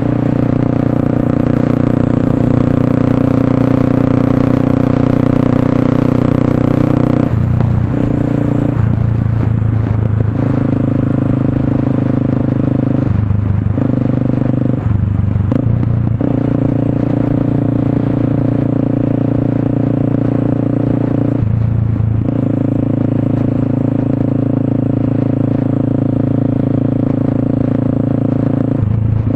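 Motorstar Cafe 400's single-cylinder engine running through an SC Project slip-on exhaust, holding a steady note that breaks off briefly and changes about six times before settling again.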